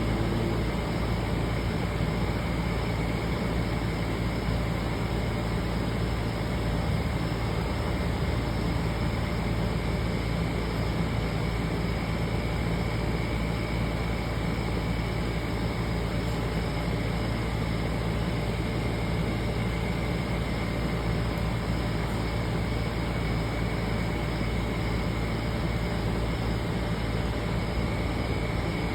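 Steady rushing background noise with a low hum underneath and no distinct events, like distant traffic or a mechanical drone.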